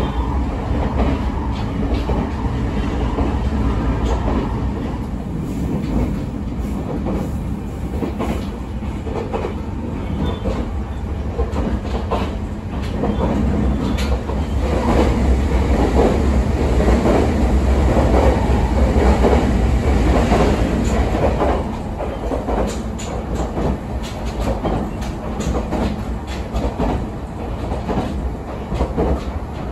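Running sound heard inside the passenger car of an Abukuma Express AB900 series electric train: steady wheel-on-rail rumble with scattered clicks over rail joints. It grows louder for several seconds in the middle and eases again about three-quarters of the way through.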